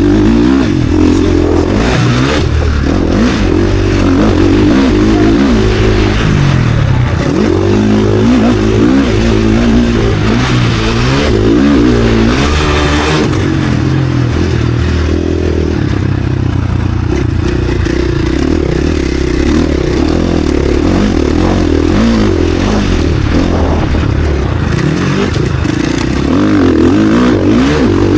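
KTM SX-F four-stroke motocross bike engine at race pace, the revs climbing and dropping again and again through gear changes and throttle on and off.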